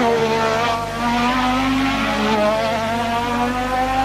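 1988 Formula One race car engine at high revs: the note drops briefly, then climbs steadily for about three seconds as the car accelerates.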